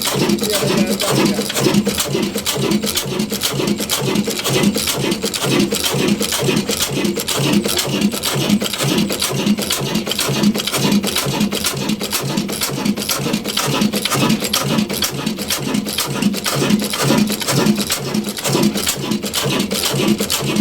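Ruston Hornsby stationary diesel oil engine running at a steady beat, about two to three firing beats a second.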